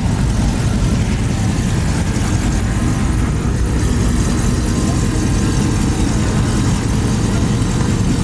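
Steady low rumble of vehicle engines idling.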